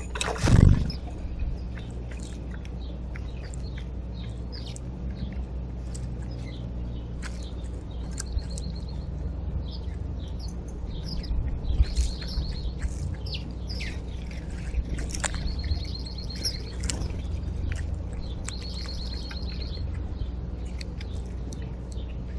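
Small backyard birds chirping, with several short buzzy trills spread through the stretch, over a steady low rumble. A loud brief swish comes about half a second in.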